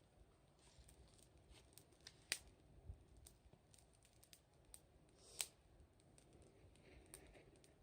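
Wood fire crackling faintly, with scattered small snaps and two sharper pops, about two and five seconds in.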